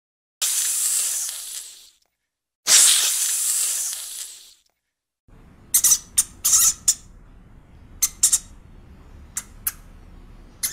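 Cobra hissing twice, each long hiss fading away. Then a rat feeding at a food bowl, with short, sharp, high clicks or squeaks in small clusters.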